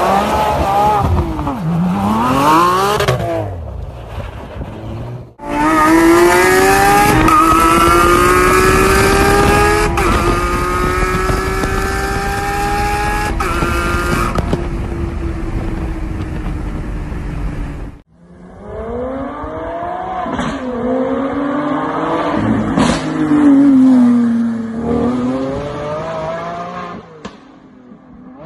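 Lamborghini Aventador SVJ's naturally aspirated V12 exhaust: revs climbing and dropping, then a long hard acceleration with the engine note rising steadily, then more revs swinging up and down.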